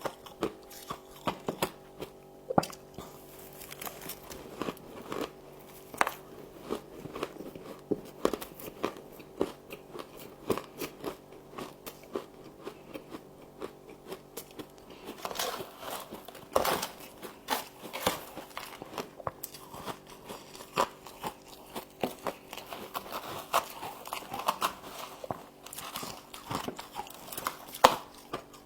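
Close-up biting and chewing of crunchy frost: a continuous run of sharp crackling crunches, over a faint steady hum.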